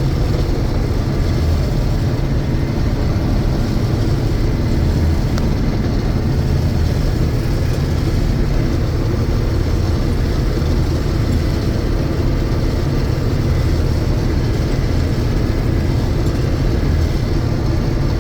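1982 John Deere 6620 Turbo combine running steadily while harvesting soybeans: a constant engine and machinery drone that holds the same level throughout.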